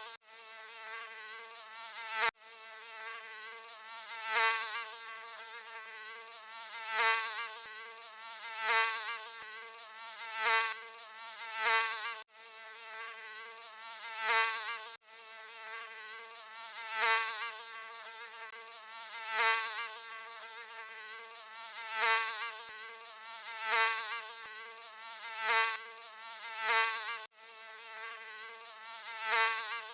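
Mosquito wing buzz, a high-pitched whine that swells loud and fades again about every two seconds, as if the insect keeps flying close past the ear. The whine drops out for an instant a few times.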